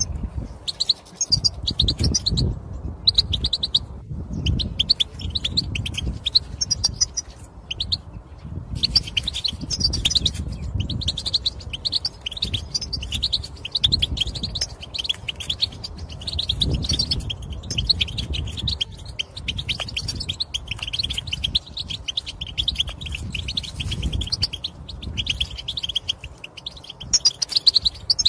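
European goldfinch twittering: fast runs of short, high chirping calls, broken by a few brief pauses, over a low background rumble. This is the excited chatter used to stimulate male goldfinches into song.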